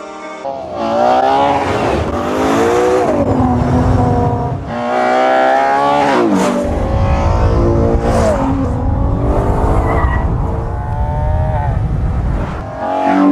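Ferrari Purosangue's 6.5-litre naturally aspirated V12 accelerating hard through the gears, its pitch climbing and falling back sharply at each upshift several times.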